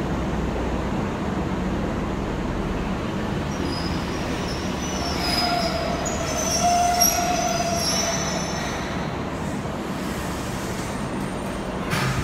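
Nagano Electric Railway 8500-series stainless electric train running into an underground platform and slowing to a stop, with a steady rumble and brake squeal rising about halfway through. A short sharp knock comes near the end.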